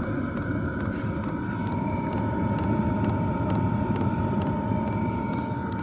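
DIY diesel air heater running on a low setting: a steady blower rush with a whine, and the fuel pump ticking about twice a second.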